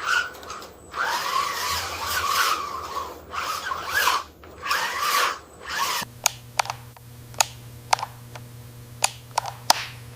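Small electric motors of a radio-controlled construction model whirring in repeated bursts of a second or so, like a power drill. Then, about six seconds in, a steady low hum with a run of sharp clicks.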